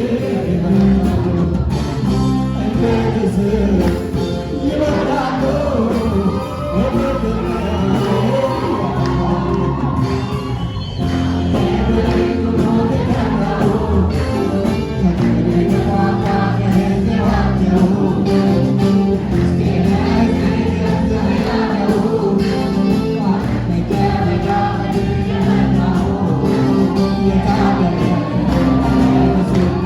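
Ethiopian gospel song (mezmur) with singing over instrumental accompaniment, continuing without a break.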